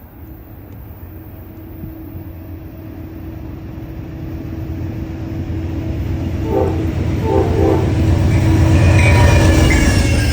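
Amtrak passenger train led by a GE P42DC diesel locomotive approaching, its engine and wheel rumble growing steadily louder. The horn gives two short blasts about six and a half seconds in.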